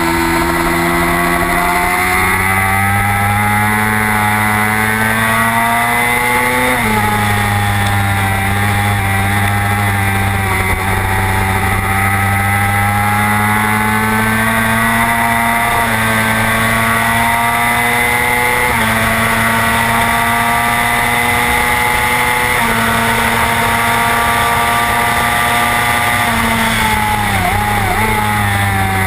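Racing motorcycle engine at high revs under full throttle, with wind rush over the bike. The pitch climbs, drops sharply about seven seconds in at an upshift, and steps a few more times later. Near the end it wavers with quick blips, as on braking and downshifting into a corner.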